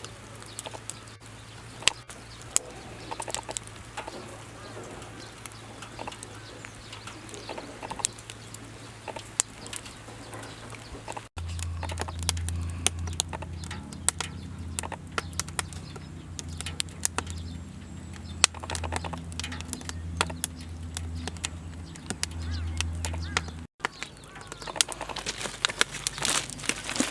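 Firewood burning in a double-combustion fire pit, crackling with frequent sharp pops. From about 11 seconds in to about 24 seconds in, a stronger steady low rumble runs under the crackle, and it stops suddenly at each end.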